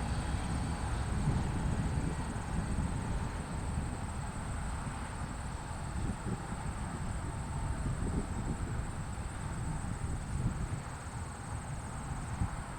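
Freight train cars rolling past: a steady low rumble with the clatter of steel wheels on the rails.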